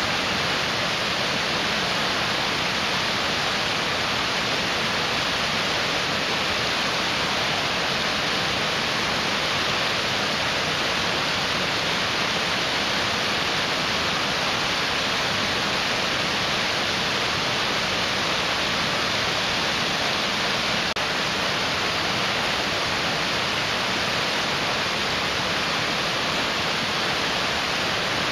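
Rushing mountain stream: water pouring over rocks in a steady, unbroken hiss.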